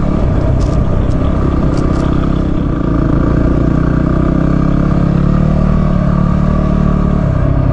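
Single-cylinder dual-sport motorcycle engine running steadily while the bike is ridden, with a few short ticks in the first two seconds.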